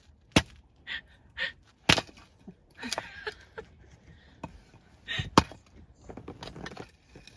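Axe splitting firewood: three sharp chopping strikes, the first two about a second and a half apart, the third after a longer pause, with lighter knocks and short gasps between them.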